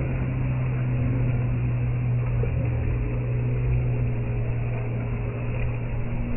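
A steady low engine hum holding one pitch, over a continuous noisy rush.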